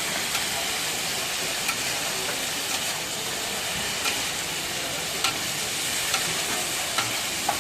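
Chicken chaap frying in oil: a steady sizzle, with scattered sharp clicks of a utensil against the pan.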